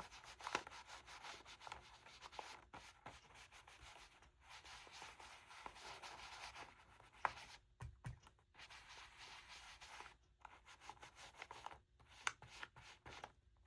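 Makeup brush rubbing ink onto a paper tag: soft scratchy rubbing in stretches of a second or two with short pauses between, and a couple of light taps.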